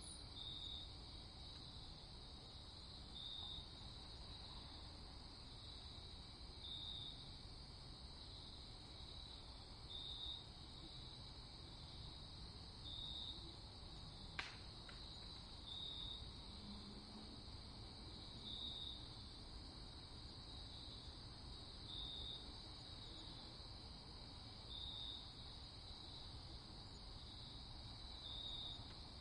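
Night-time crickets trilling steadily and faintly, with a louder pulse in the trill about every three seconds. A single sharp click comes about halfway through.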